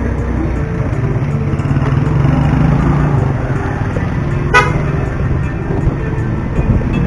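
Road traffic heard from a moving vehicle: a steady low engine rumble, with a short vehicle horn toot about four and a half seconds in.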